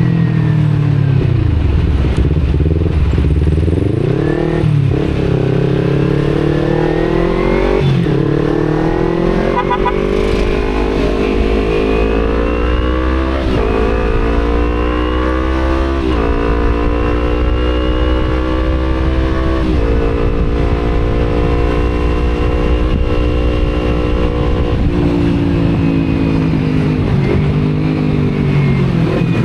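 Kawasaki Z250 parallel-twin engine with an Akrapovic exhaust pulling through the gears: its pitch climbs, drops sharply at each of about four upshifts, holds steady for a few seconds, then falls as the throttle eases off near the end. Wind rumble on the microphone runs underneath.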